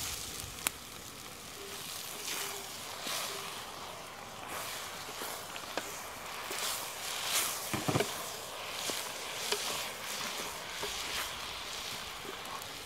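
Onions and vegetables sizzling as they fry in a pot over a wood fire, with short swishes every second or so as they are stirred.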